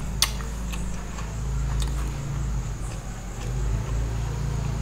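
Close-miked chewing with the mouth closed: a low, muffled rumble with a few sharp mouth clicks.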